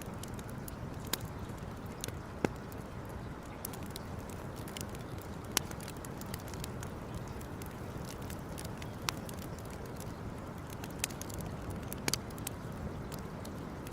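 Campfire burning: a steady low rushing noise with irregular crackles of burning wood and a few louder sharp pops, about every three seconds.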